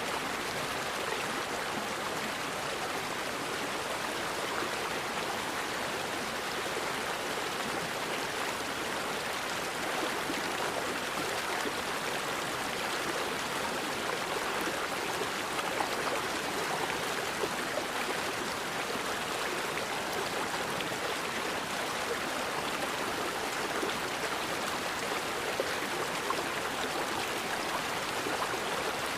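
Forest river flowing steadily, an even rush of water with no break.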